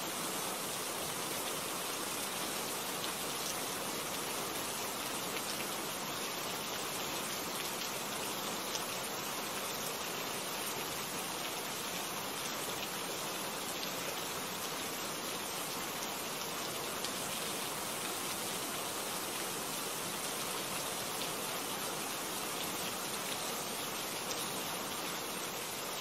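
Steady rain falling: an even, unbroken hiss of rain with a few faint drop ticks.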